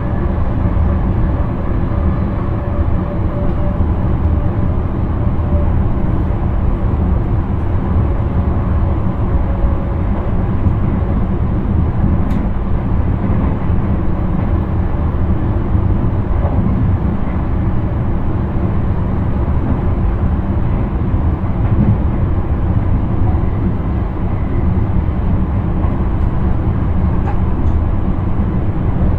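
Intercity train running steadily at speed, heard from inside the driver's cab: a constant low rumble of wheels on rail, with a faint whine that fades out about ten seconds in.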